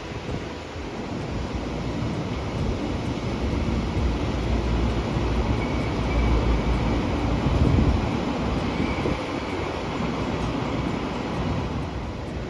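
Train running past, a steady rumble of wheels on rails that grows to its loudest about six to eight seconds in, then eases slightly.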